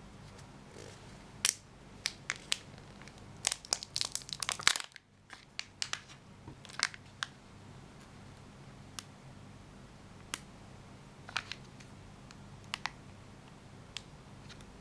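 Plastic packaging crinkling and clicking as a Kinder Joy egg and its toy are handled: a dense run of sharp crackles in the first five seconds, then scattered single clicks.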